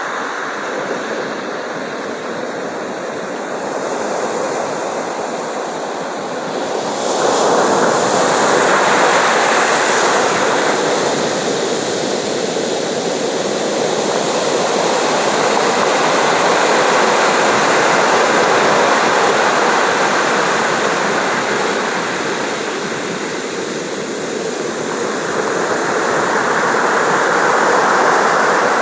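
Sea waves breaking and washing on the shore in a steady surf, swelling and easing in slow surges, the biggest about a quarter of the way in and again near the end.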